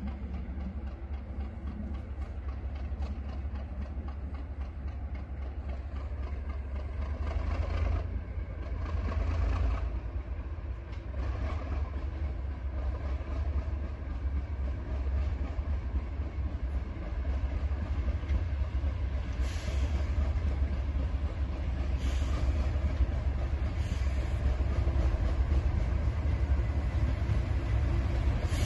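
Diesel train running, a steady low rumble that grows louder toward the end, with occasional clanks.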